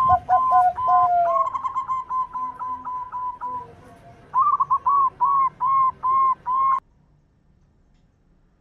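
Zebra doves (perkutut) cooing in runs of clear, whistle-like notes, two birds overlapping at different pitches at first. A quick string of short notes is followed by a slower series of longer notes, cutting off suddenly about seven seconds in.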